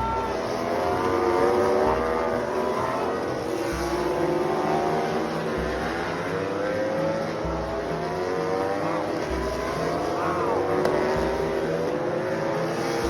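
Several racing motorcycle engines running at high revs on a circuit, their pitch rising and falling with throttle and gear changes. A low thud repeats about every two seconds underneath.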